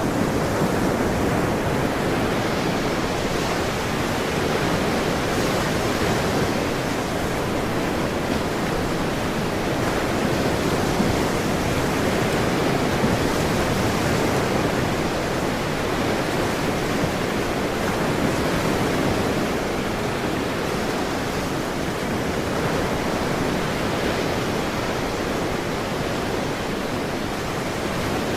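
Ocean surf: a steady, continuous wash of breaking waves, rising and falling only slightly.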